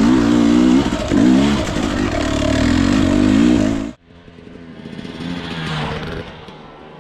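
Single-cylinder two-stroke engine of a Husqvarna TE 250i dirt bike revving up and down over and over as it is ridden. It cuts off abruptly about four seconds in, and a much quieter sound follows that swells and then fades.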